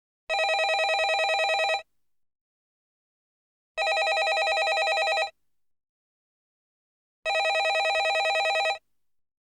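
Landline telephone ringing: three fast trilling rings of about a second and a half each, with pauses of about two seconds between them.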